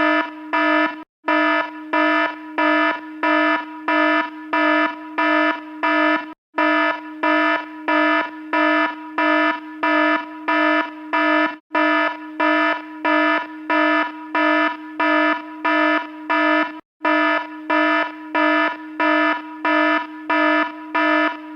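Electronic alarm beeping about twice a second, a buzzy tone of one steady pitch, with a brief break every five seconds or so.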